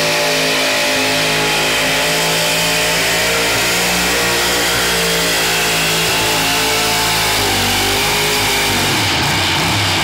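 A competition pulling vehicle's engine running hard at high revs, its pitch steady, then dropping as the revs fall near the end.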